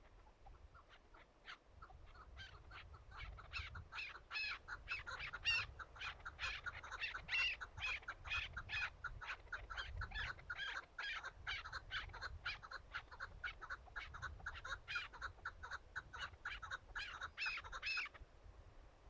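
Chukar partridge giving its rapid clucking rally call, about three calls a second. The series builds in loudness and then stops abruptly near the end.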